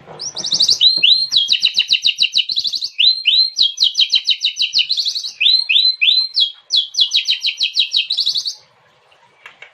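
Oriental magpie-robin (kacer) singing a loud, fast, varied song of rapid runs of repeated high notes, broken by short slurred phrases. The song stops shortly before the end.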